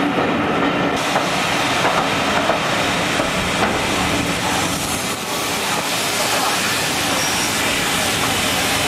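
Heritage-railway passenger train running through a station, heard from an open carriage window: steady noise of the wheels on the rails.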